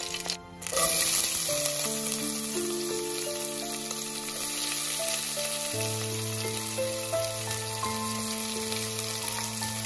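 Chopped red onion and green chillies sizzling in hot oil in a stainless steel pan, over a tempering of mustard seeds, curry leaves and dried red chillies. The sizzle starts suddenly about a second in, after a short dip, and then runs on steadily.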